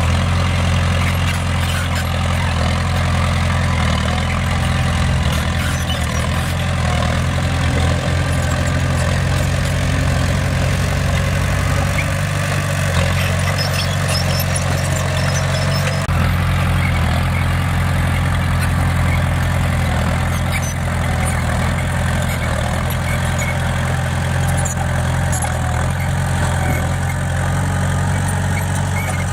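Bulldozer's heavy diesel engine running steadily under load, with faint scattered clinks over the low engine drone.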